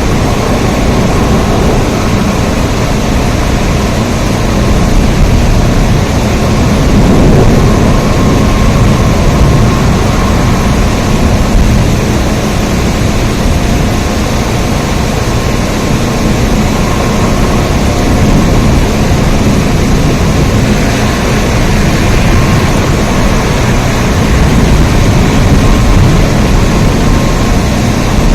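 Steady rain: a dense, even rushing noise with a heavy low rumble and slow swells in loudness.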